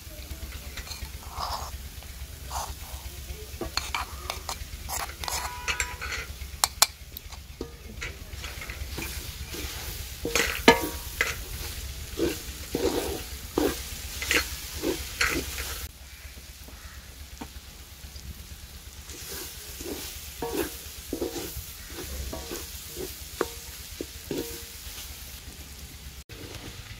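Grated carrots frying in freshly added desi ghee in an aluminium karahi, sizzling, while a wooden spoon stirs and scrapes them against the pan in irregular strokes. The carrots' water has been cooked off and they are now being roasted in the ghee for gajar ka halwa.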